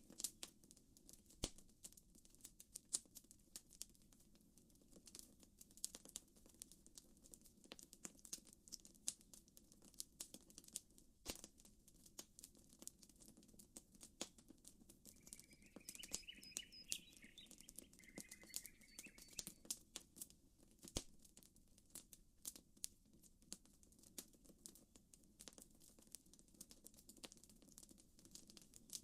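Campfire wood crackling, with quick irregular pops and snaps over a soft steady low background. A bird chirps briefly about halfway through.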